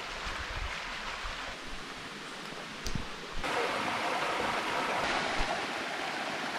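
Flowing stream water, a steady rushing hiss that turns suddenly louder about three and a half seconds in, with a single click just before the change.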